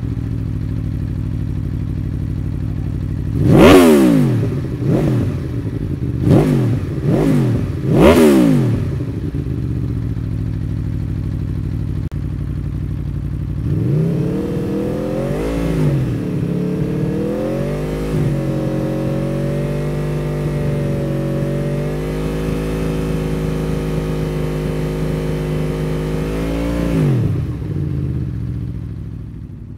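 Aprilia Tuono V4 Factory's 1077 cc V4 engine through an Akrapovic slip-on exhaust, idling, then blipped five times in quick succession. It settles back to idle, then is held at raised revs for about thirteen seconds before dropping back to idle near the end.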